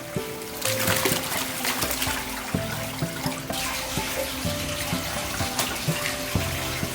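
Running water pouring and splashing, with small knocks, over background music.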